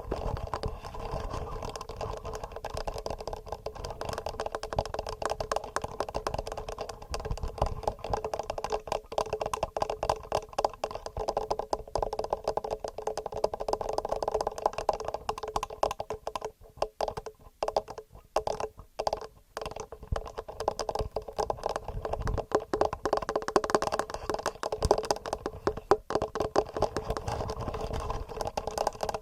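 Fingernails tapping rapidly on a TASCAM recorder's microphones: a fast, dense run of small clicks and clacks that thins out briefly a little past the middle.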